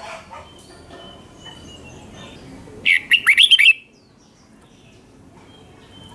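Red-whiskered bulbul singing: one short burst of quick whistled notes sweeping up and down, about three seconds in, with fainter calls around it.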